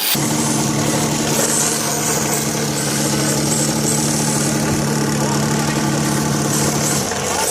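An engine idling steadily, a constant hum that cuts out about seven seconds in.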